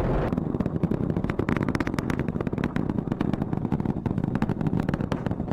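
Roar of the Artemis 1 Space Launch System rocket in flight, its boosters and engines heard as a low rumble with a dense, rapid crackle of pops.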